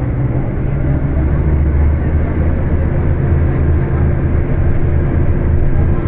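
Scania K250UB city bus engine running under way, a steady low drone.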